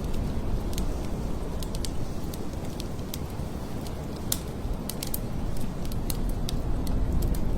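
Blizzard wind howling in heavy gusts, easing in the middle and building again near the end, with scattered sharp crackles and ticks over it.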